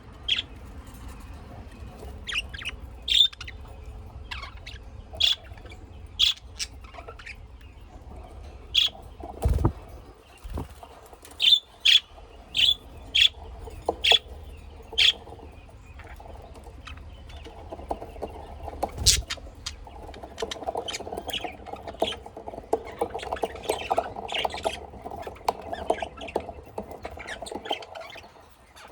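Caged pet birds giving short, sharp chirps, singly and in quick runs, with a couple of dull thumps. In the latter part a busy, dense rustling patter sets in.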